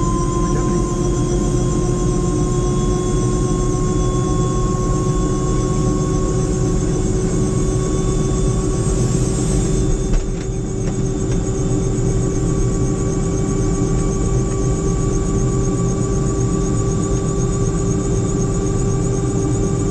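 Helicopter turbine engine and rotor running, heard inside the cabin: a steady whine over a dense low rumble, its pitch rising slowly as the engine and rotor come up to speed.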